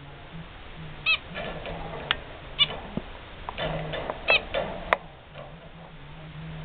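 Zebra finch giving short calls, three or four of them spaced a second or so apart, among light clicks and taps, over a steady low hum.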